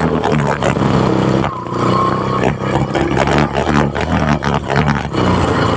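Vehicle engine running at light throttle while moving, with frequent knocks and rattles. A brief steady high tone sounds about a second and a half in.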